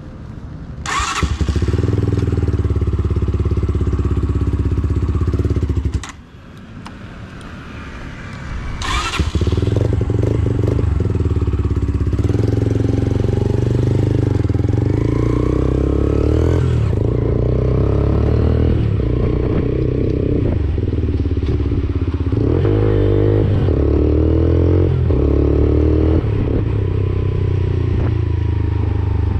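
Single-cylinder 125cc motorcycle engine running through an aftermarket Black Widow exhaust. It starts with a sharp burst about a second in and cuts off about six seconds in. It comes back with another sharp burst near nine seconds and runs steadily, its pitch rising and falling.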